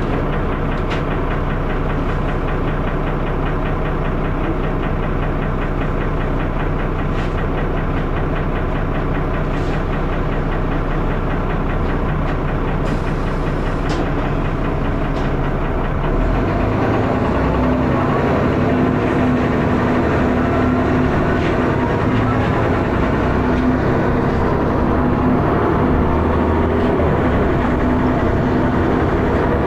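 Dennis Arrow bus engine running hard with a loud knocking and thrashing clatter. About halfway through it gets a little louder and takes on a new, steadier note.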